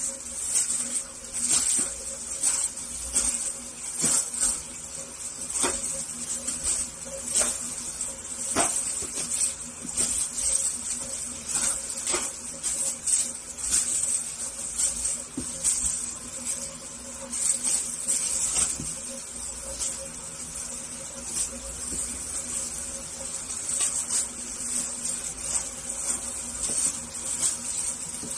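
High-pitched insect chirping that swells and fades in pulses, with scattered sharp clicks and a faint steady hum underneath.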